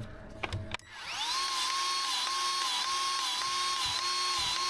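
Battery-powered grease gun motor spinning up about a second in and running with a steady whine that wobbles slightly and regularly as it pumps, forcing grease into a stubborn Zerk fitting on a skid steer's U-joint.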